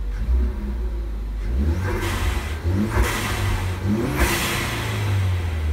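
Ford Focus ST's turbocharged 2.0-litre four-cylinder revved in the parked car, blipped up about three times with rising engine note, each time falling back. The engine is on freshly installed spark plugs, and the revving checks its throttle response.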